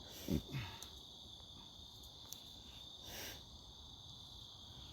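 Faint, steady, high-pitched insect chorus, with a brief low grunt-like vocal sound just after the start and a short rustle about three seconds in.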